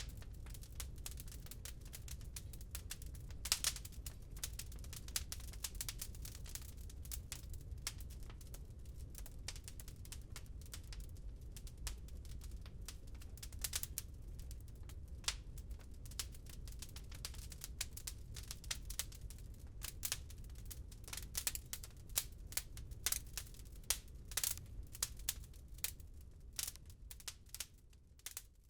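Wood fire crackling, with dense irregular clicks and a few louder pops over a steady low rumble. The sound fades away near the end.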